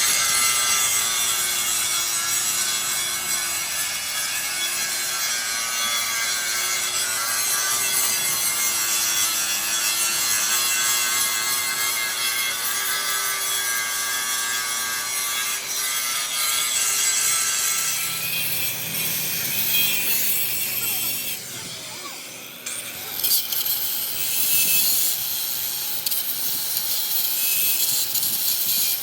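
Angle grinder grinding metal, its motor whine wavering as the load changes. Around two thirds of the way through the pitch shifts and the grinding briefly eases, then it runs on at a different, steadier pitch.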